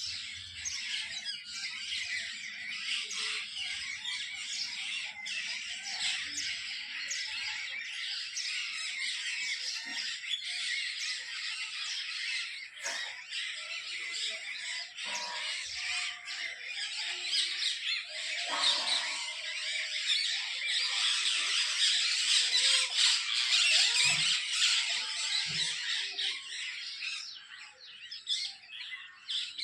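A dense chorus of many birds calling and chattering at once, with squawks among the chirps; it swells louder about two-thirds of the way through.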